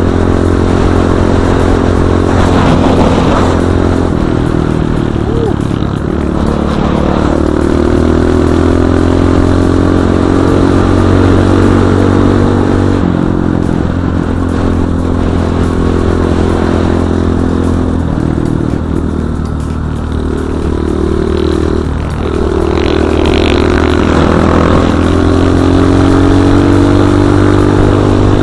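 Enduro dirt bike engine running under way, its pitch stepping up and down every few seconds as the throttle opens and closes and the gears change.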